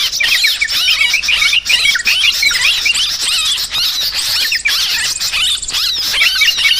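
A flock of yellow-vented bulbuls chattering noisily, many short, quick, overlapping calls with no break, the agitated chorus used as a bird-trapping lure.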